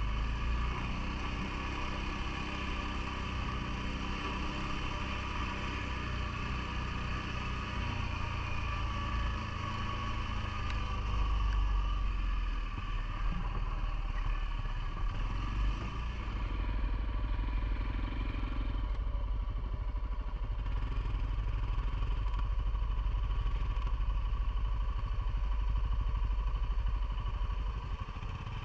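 CFMoto ATV engine running steadily throughout, its note shifting a little as it goes.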